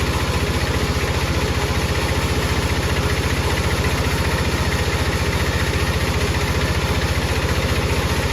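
An engine running steadily at idle with a rapid, even pulse and no change in speed.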